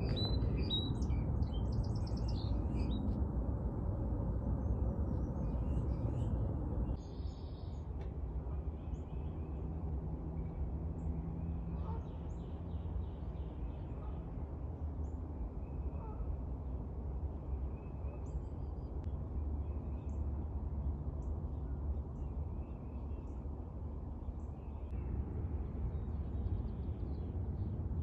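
Small birds chirping and calling on and off over a steady low outdoor rumble.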